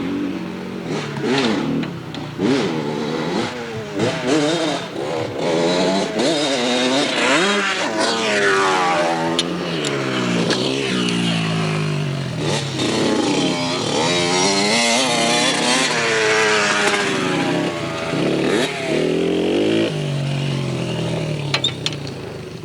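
Dirt bike engines revving up and down as they are ridden. Through the middle stretch two engines can be heard at once, their pitches rising and falling across each other.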